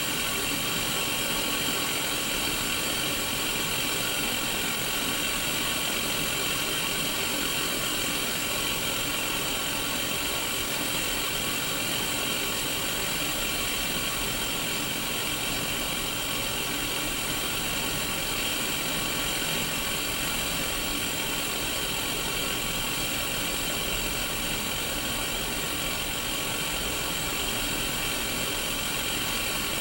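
Sony Mega Watchman black-and-white mini CRT television hissing with static from an untuned channel: a steady, even hiss, brightest in the upper-middle range, with faint steady tones underneath.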